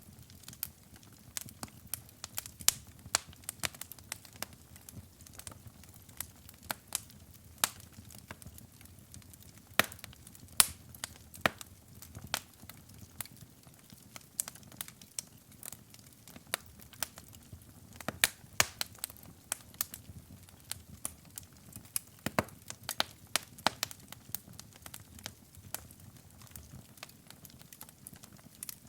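Wood fire burning in a fireplace: irregular sharp crackles and pops, some louder snaps, over a low steady hiss of the flames.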